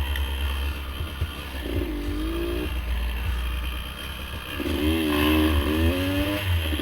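Dirt bike engine running on a trail ride, revving up and easing off twice.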